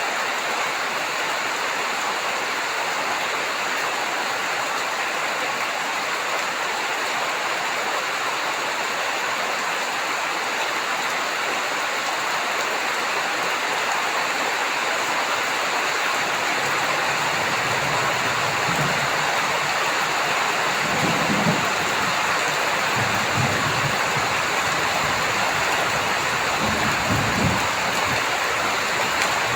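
Heavy rain falling steadily, with low rumbles of thunder coming and going in the last third.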